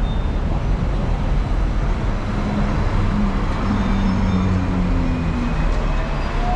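Hong Kong tram running along the street: a steady low rumble, with a humming tone through the middle and a faint rising whine near the end.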